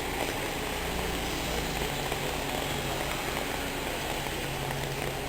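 Steady, unbroken rush of floodwater, with a faint low hum underneath.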